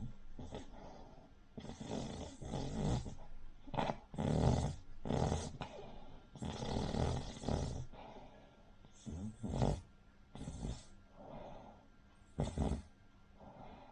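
Cavalier King Charles Spaniel snoring in its sleep: a string of rough breaths, some long and some short, at uneven intervals. It is the pug- or bulldog-like snore of a short-muzzled breed.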